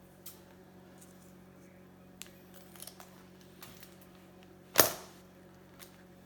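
Baseball card packs and cards being handled: scattered small clicks and rustles under a faint steady hum, with one sharp snap about five seconds in.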